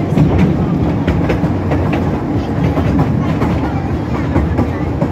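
Park railway carriage running on narrow-gauge track, heard from the open passenger carriage: a steady rumble of the wheels with scattered clicking and clacking over the rails.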